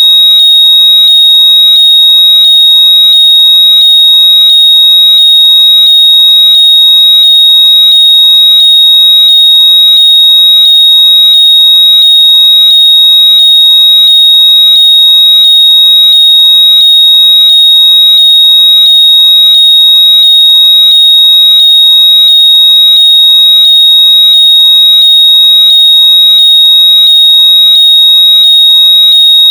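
Very loud, continuous high-pitched electronic tone with a faint regular pulsing beneath it, a locator noise played through lost earbuds or AirPods so they can be found by ear.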